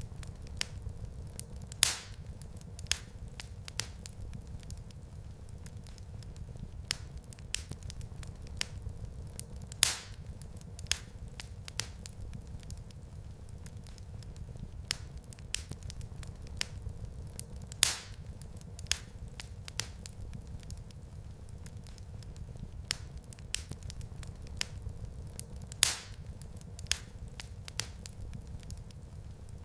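Wood fire crackling in a fireplace: a steady low rumble of burning under frequent small snaps and pops, with a sharper, louder pop about every eight seconds.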